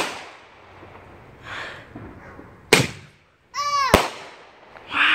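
Consumer aerial firework shells bursting overhead: three sharp bangs, one at the start, one about two and a half seconds in and one about four seconds in. A brief high-pitched squeal comes just before the third bang.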